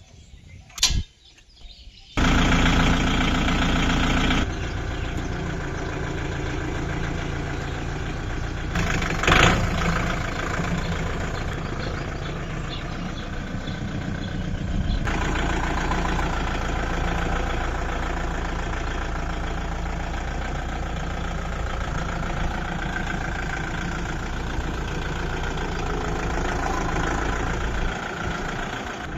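Kubota tractor's diesel engine running steadily, cutting in suddenly about two seconds in after a few sharp knocks, with a brief louder burst around nine seconds in.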